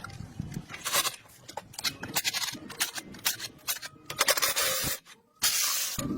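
Workshop clicks and knocks, then two bursts of hissing spray, like a compressed-air spray or blow gun, about four seconds in and again near the end.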